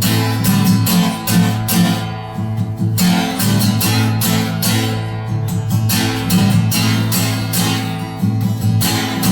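Acoustic guitar strummed in a steady rhythm between sung verses, with a few strokes each second.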